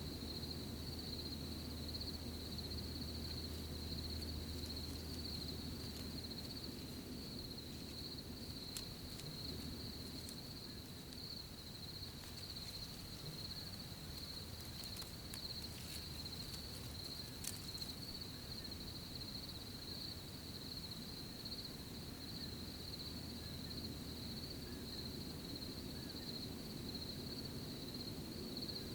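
Crickets chirping in a steady, continuous high chorus over a soft, low rustling background, with a few faint clicks in the middle.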